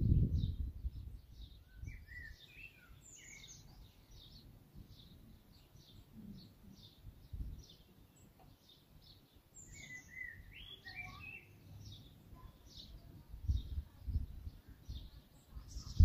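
Songbirds outdoors: one bird repeats a short, high note about twice a second throughout, and two louder warbling song phrases come about two seconds in and again about ten seconds in. Low rumbling noise swells at the start and again near the end.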